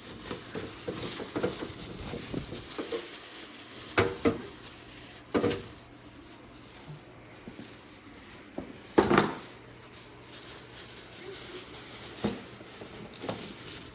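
A bag of small caster wheels being rummaged through and handled: a scratchy rustle with a handful of sharp knocks and clacks, the loudest about nine seconds in.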